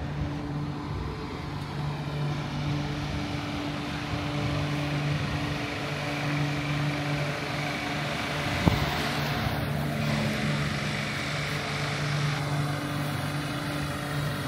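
The Ghan passenger train standing at the platform with its machinery running: a steady, constant-pitch low hum. There is a single sharp click a little past halfway.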